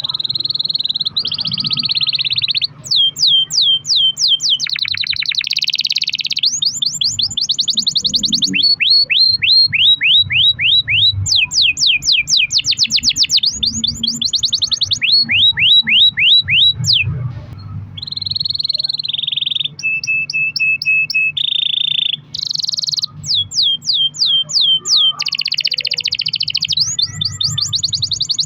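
Domestic canary singing one long unbroken song of rolls: fast runs of repeated high notes, one trill giving way to the next every second or two, with a short held whistle about two-thirds of the way through.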